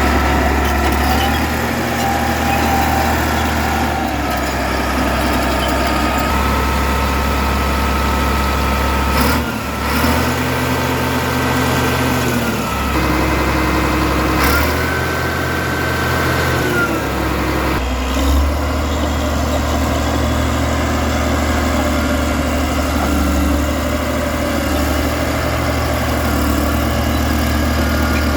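Caterpillar D6D bulldozer's turbocharged 3306 six-cylinder diesel running steadily. Its pitch rises and falls back twice, with a short knock about nine seconds in and another near eighteen seconds.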